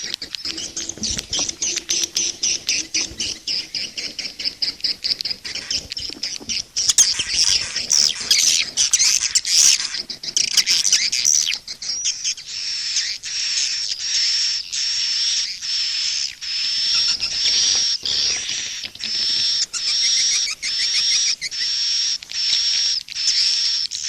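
Recorded chorus of swiftlets twittering, high-pitched and continuous: a dense, rapid flurry of chirps in the middle, then a steady train of repeated twittering calls. It is an 'SP' calling-sound mix of the kind played from swiftlet houses to lure the birds in.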